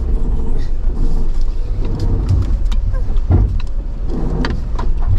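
Jeep Wrangler JL crawling over a rocky off-road trail: a steady low engine and drivetrain rumble, broken by several hard knocks and clunks from the suspension and body as it drops through a hole. The loudest knock comes a little past the middle.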